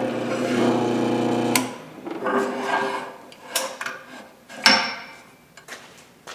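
A power tool's motor runs steadily with a rubbing, grinding sound as metal is worked, then stops about one and a half seconds in. Afterward come a few sharp clicks and knocks as parts are handled.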